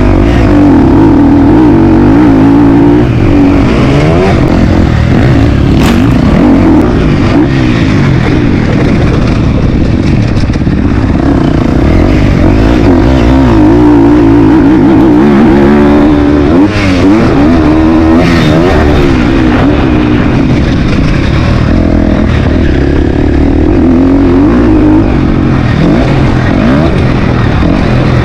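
Motocross bike engine running hard and very loud, its pitch climbing and dropping again and again as the throttle is opened and closed.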